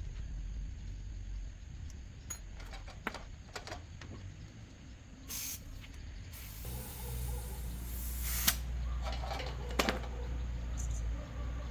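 A hiss of spraying air, short about five seconds in and longer from about six and a half seconds, over a low workshop rumble, with scattered clicks and knocks.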